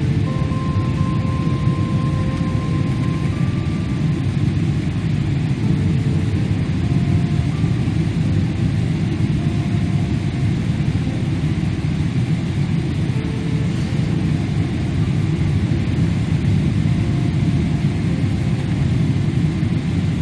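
Steady rumble and rush of an airliner heard from inside the passenger cabin: jet engines and airflow at an even level.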